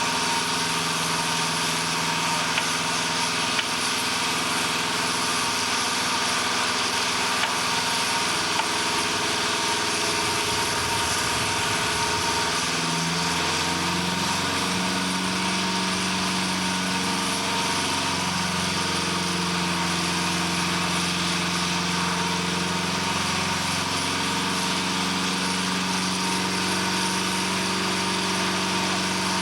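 An engine running steadily over a constant hiss; about 13 s in, a lower hum rises in pitch and then holds steady.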